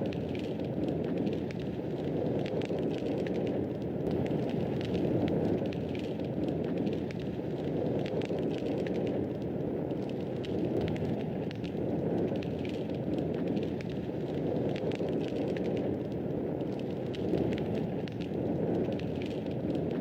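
Wood fire burning with a steady low rush and many small, irregular crackles and pops.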